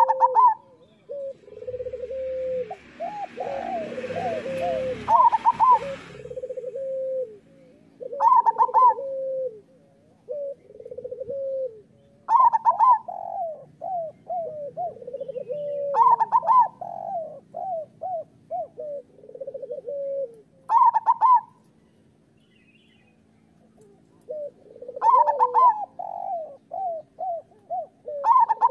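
Zebra doves (local perkutut) cooing: repeated song phrases about every four seconds, each a couple of higher notes followed by a run of short, descending coos.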